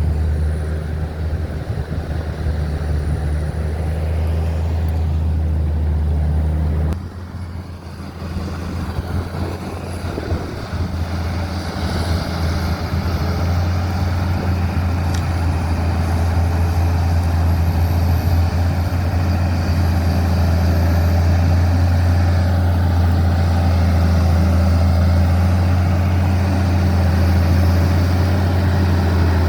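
Heavy diesel engine of logging machinery running steadily under load. It eases off briefly about 7 seconds in, then picks back up and holds loud and steady.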